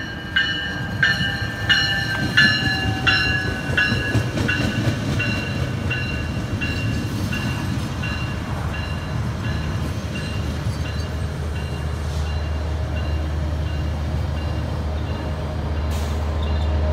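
Bell on the leading cab car of a Metrolink commuter train ringing about one and a half strokes a second as it passes, dropping a little in pitch and fading away, over the rumble of bilevel coaches rolling by. Near the end a steady low drone builds as the F125 diesel locomotive pushing at the rear draws near.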